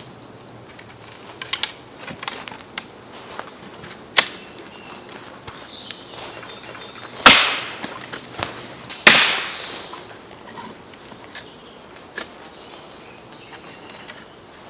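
Firewood being chopped and split by hand: two heavy blows about seven and nine seconds in, each followed by a splintering crack, with lighter knocks and snaps of wood in between.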